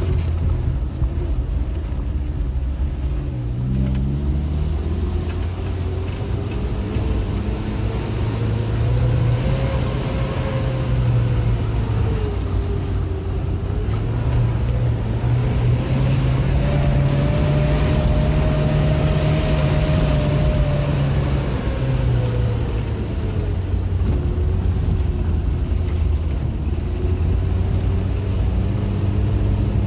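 Motor vehicle engine and road rumble, running continuously, with the engine pitch rising and falling slowly over several seconds at a time and a faint high whine coming and going.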